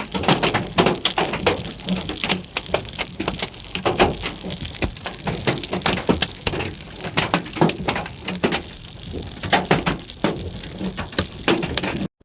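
Hailstones striking a vehicle's body and glass: a dense, irregular clatter of sharp knocks, several a second, some much harder than others.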